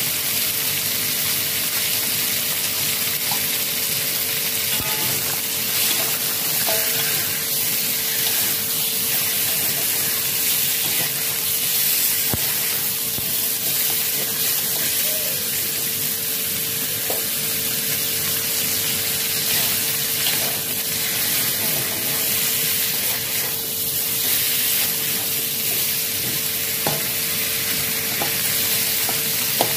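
Chicken wings sizzling as they fry in oil in a metal wok, a steady hiss, while a metal spatula stirs them with scattered light clinks and scrapes against the wok.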